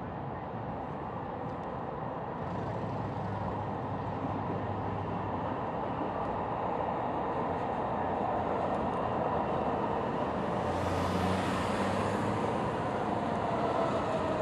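Light rail train rumbling as it moves through the station, a steady noise that slowly grows louder, with a faint falling whine near the end.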